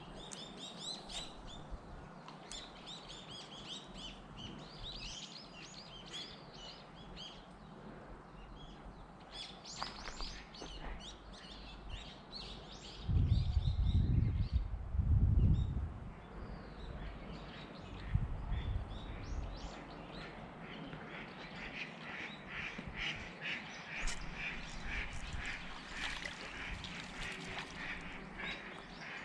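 Birds chirping and calling in many short high notes, with a fast run of repeated calls in the last third. A low rumble a few seconds long, around the middle, is the loudest sound.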